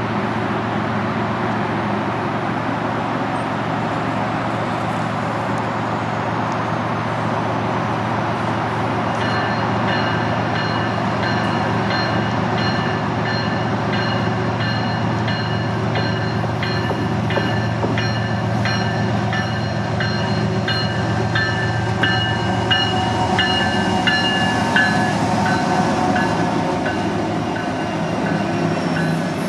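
A diesel-hauled double-stack container freight train approaching and passing close by, with a steady heavy rumble. From about nine seconds in, high squealing tones from the wheels on the curved track come in over the rumble, together with regular clicks from the wheels on the rails, growing stronger as the locomotives go by.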